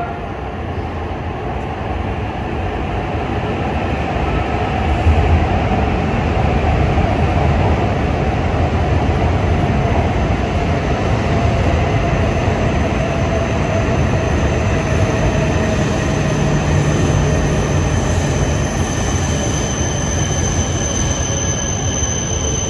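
Coupled E6-series and E5-series Shinkansen train pulling slowly into a station platform: steady rumble of wheels and running gear that grows louder over the first few seconds as the train reaches the platform. A thin high whine comes in near the end.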